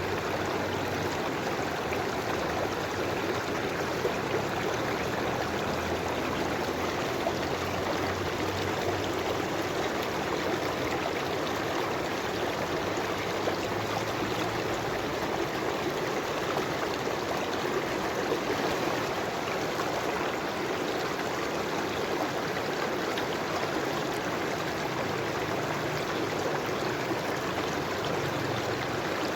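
River water flowing steadily over stones, a constant rushing with light trickling and gurgling.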